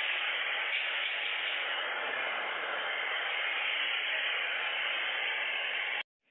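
Steady, even hiss of noise with no tone or rhythm, cutting off abruptly near the end.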